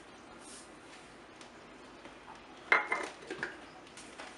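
Kitchenware clinking as ingredients are measured: one sharp clink with a short ring a little past halfway, then a few lighter knocks and clinks.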